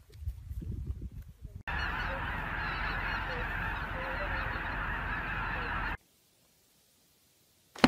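A large flock of geese calling all at once: a dense, steady chorus of honks for about four seconds that cuts off suddenly.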